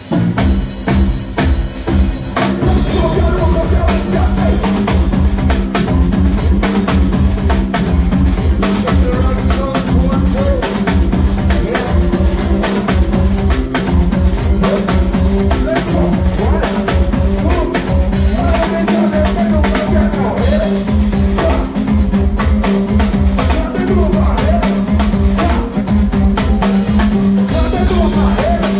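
A live band playing music, the drum kit prominent with bass drum and snare hits over sustained low instrument notes, during a sound check.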